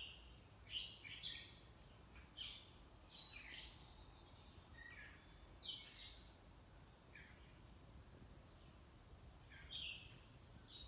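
Faint bird chirps outdoors: short, high calls come every second or so, some sweeping quickly down in pitch.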